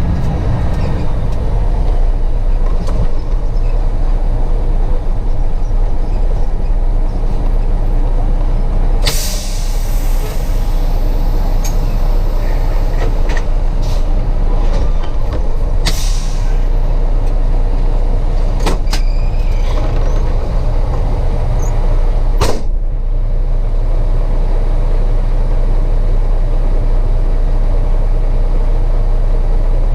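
Diesel truck engine running with a steady low rumble, with short hisses of air from the air brakes: a longer one about a third of the way in, then shorter ones around the middle and at about three-quarters.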